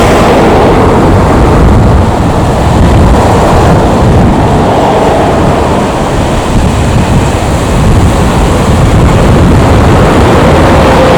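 Airbus A320neo's Pratt & Whitney geared turbofan engines at takeoff power, a loud steady roar with a faint whine that rises slightly near the end, mixed with wind buffeting the microphone.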